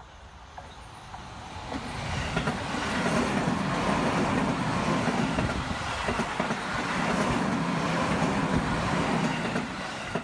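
A Seibu 20000 series eight-car electric commuter train approaches and passes close by. The sound builds over the first two seconds into a steady, loud running of wheels on rails, with clacks as the wheels cross the rail joints.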